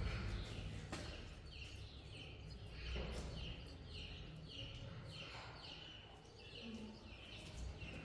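A small bird chirping over and over, short high notes about two a second, over a low rumble.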